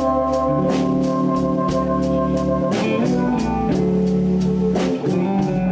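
Live blues band playing an instrumental passage between vocal lines: held sustained chords over a steady drum beat and bass.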